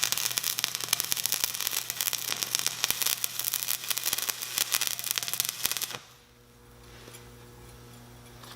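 Stick (SMAW) welding arc burning a 909 mild steel electrode, crackling and sputtering continuously. It cuts off about six seconds in, leaving only a faint steady low hum.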